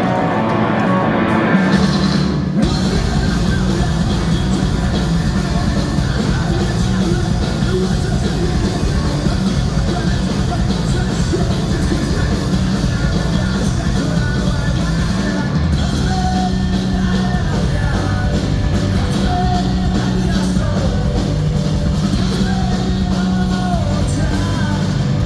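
Ska-punk band playing loud live rock music, with drums and electric guitars. The bass and kick drum come in about two and a half seconds in, and the full band then plays on steadily.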